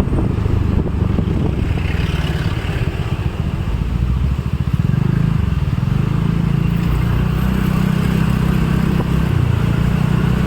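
A road vehicle's engine running steadily while driving along. The engine note dips briefly about halfway through, then holds steady again.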